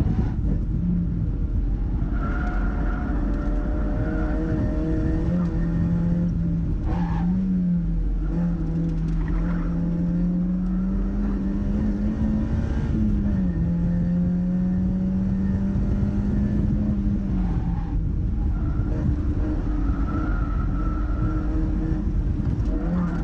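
Mazda MX-5's four-cylinder engine running hard at track pace. Its note climbs and falls steadily, with a couple of brief breaks where the pitch drops, as at gear changes or lifting for corners.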